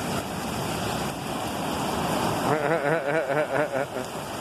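Ocean surf breaking on a beach: a steady rushing wash of waves, with a brief wavering human voice about halfway through.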